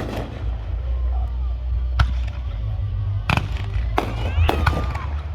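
Fireworks going off in a display: several sharp bangs at uneven intervals, the loudest about two seconds in, over a steady deep rumble, with crowd voices between the bursts.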